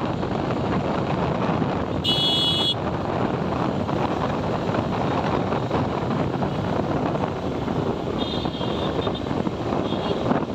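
Steady wind buffeting and road and engine noise from a moving motorcycle in traffic. A vehicle horn sounds briefly about two seconds in, and a fainter horn sounds twice near the end.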